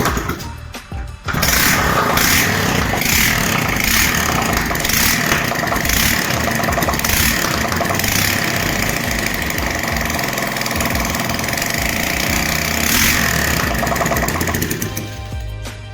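Moped engine starting after a couple of short bursts about a second in, then running steadily with regular pulsing, fading out near the end.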